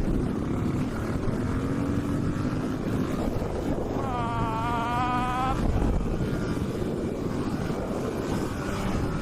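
Honda XR600R supermoto's single-cylinder four-stroke engine running on the move, its pitch climbing slowly about a second in, under heavy wind noise on the microphone. A brief high, wavering tone sounds about four seconds in for a second and a half.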